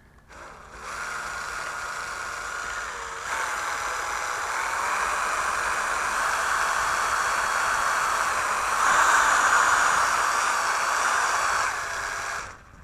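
A winder whirring steadily as it winds the twisted rubber motor of a rubber-powered model plane. It gets louder and faster in two steps, about three seconds in and again near nine seconds, then stops just before the end.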